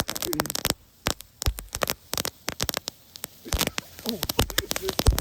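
Small ground firework crackling: a dense run of sharp irregular pops and cracks in the first second, then scattered pops.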